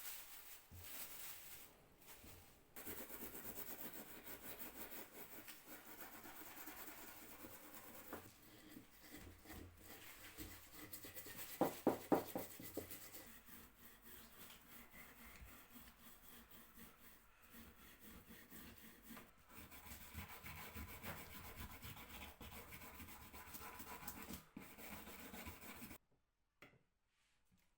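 Steady hand rubbing on a wooden surface, like sanding or working the table top, with a brief louder scrape about halfway through. The rubbing stops suddenly shortly before the end.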